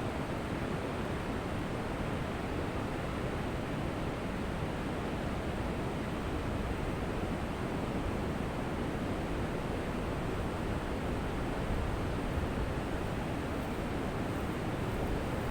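Ocean surf washing steadily onto a beach, a continuous even rush without distinct breaks.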